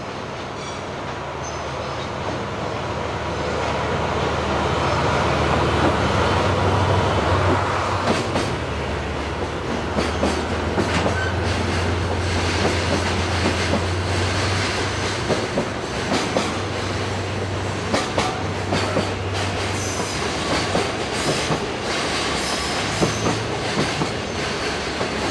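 A JR Freight DF200 diesel-electric locomotive goes by slowly with its engine running, the low drone building over the first several seconds. Container wagons follow with a regular clack of wheels over the rail joints and points. Near the end the engine drone of the second DF200, pushing at the rear, comes up again.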